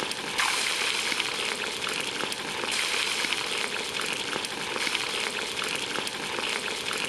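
Onion frying in hot oil in a pan: a steady sizzle with many small crackles.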